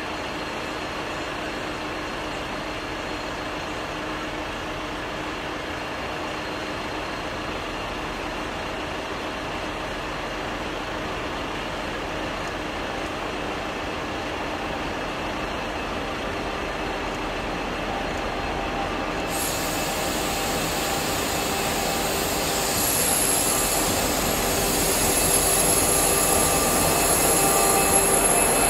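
A G class diesel-electric locomotive hauling a ballast train slowly through a station. There is a steady low engine rumble that grows louder over the second half as it draws near. A thin, high wheel squeal joins near the end.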